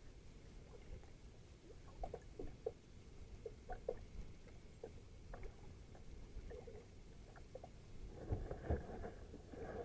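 Faint small water splashes and taps around a kayak on calm water, with a cluster of louder knocks and low thumps near the end.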